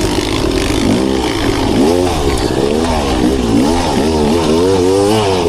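Beta Xtrainer two-stroke dirt bike engine being ridden, its pitch rising and falling over and over as the throttle is worked, over a steady hiss.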